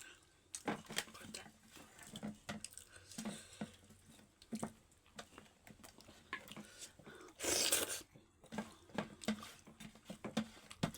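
Close-up eating sounds: wet chewing and lip smacks of dhido and chicken curry, a string of small clicks throughout. About seven and a half seconds in comes a louder half-second rush of breathy noise.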